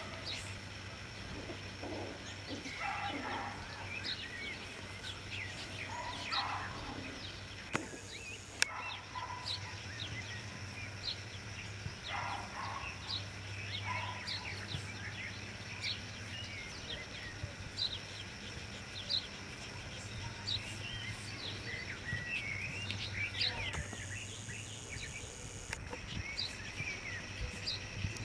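Songbirds chirping over and over in the background, short quick calls scattered throughout, over a low steady hum.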